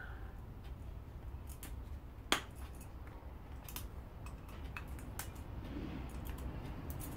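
Scattered light clicks and ticks of hand tools and metal and plastic parts being handled during a teardown, with one sharp click about two seconds in, over a steady low hum.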